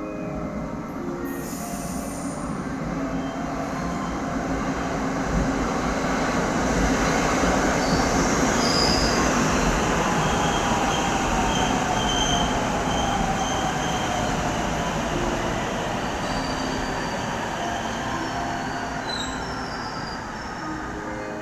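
A train passing through a station, its running noise swelling to a peak midway and then fading, with high wheel squeal and a faint falling tone as it goes by.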